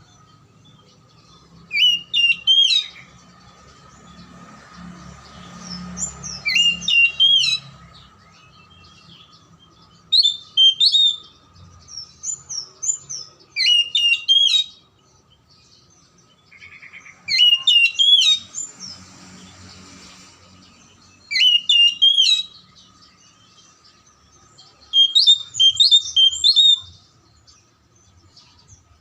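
Oriental magpie-robin (kacer) singing: about eight short phrases of quick, sliding whistled notes, each a second or so long, with pauses of a few seconds between them. A faint steady tone runs underneath.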